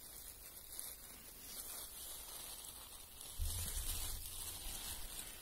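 Faint rustling of undergrowth and handling noise. A low rumble from wind or the microphone being moved comes in a little over halfway through.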